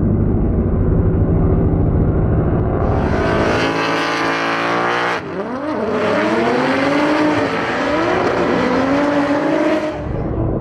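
A drift car's engine held at high revs while sliding, its pitch climbing, cutting out sharply about five seconds in, then swinging up and down with the throttle. Before about three seconds in and again at the very end, only a muffled low background is heard.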